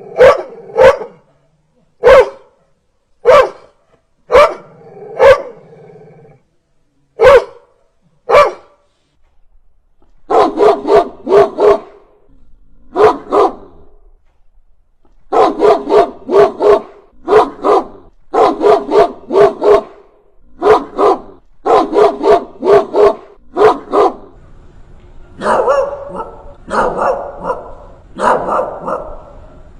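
Dog barking fiercely: single sharp barks about a second apart, then after a short pause fast runs of three or four barks in a row, over and over.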